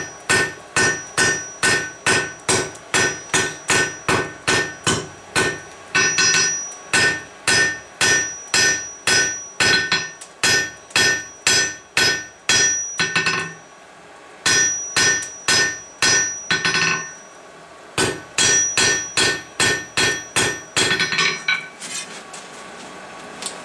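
Blacksmith's hammer striking hot steel on an anvil while forging a fishtail end, about two blows a second, each leaving a high ring from the anvil. The hammering pauses briefly twice and stops a couple of seconds before the end.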